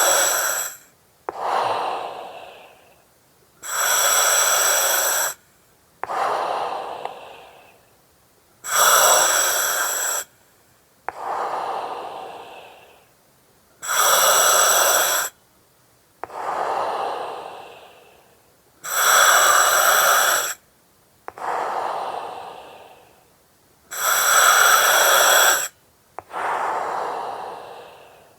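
Slow, regular breathing through an oxygen mask, about six breaths: each a sharp-edged steady hiss from the mask's regulator lasting about a second and a half, followed by a softer breath that fades away.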